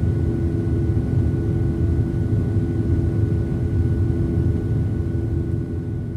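Steady low rumble with a constant hum from a vehicle in motion.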